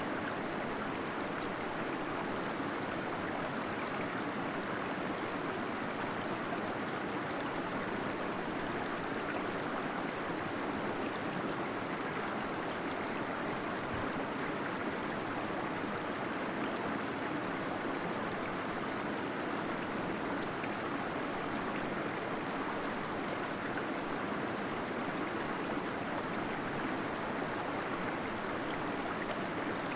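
Small waterfall flowing steadily, an even rush of falling and gurgling water without breaks.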